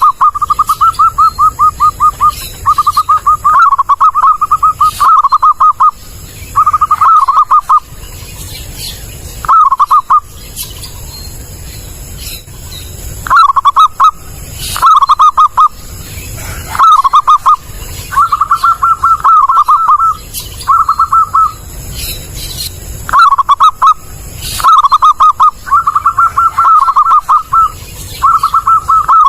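Zebra dove cooing: repeated phrases of quick staccato notes, each lasting about half a second to two seconds, with short pauses between them.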